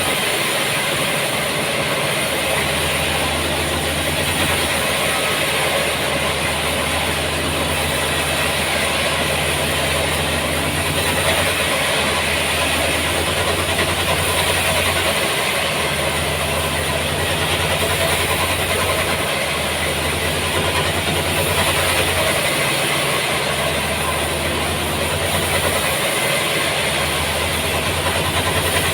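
Sawmill machinery running steadily, with an engine hum under an even, hissing saw noise. The low hum drops out briefly several times.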